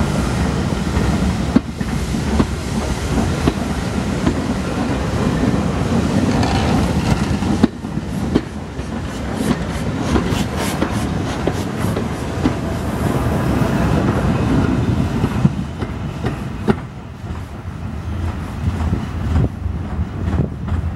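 Railway carriages passing close by: a steady rumble of steel wheels on the rails with irregular clicks as the wheels cross rail joints. The sound drops away a few seconds before the end as the last coach passes and the train moves off.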